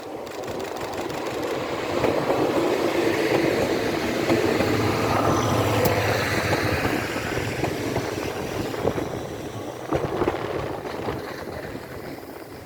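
The Okuizumo Orochi sightseeing train, hauled by a DE10 diesel locomotive, passing by. Its rumble builds to a peak about halfway through and then fades, with a steady low engine hum at its loudest.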